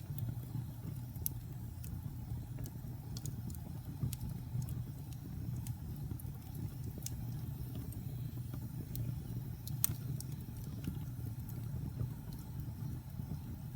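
Wood fire burning in a fireplace: a steady low rumble of flames with scattered sharp crackles and pops, one louder pop about ten seconds in.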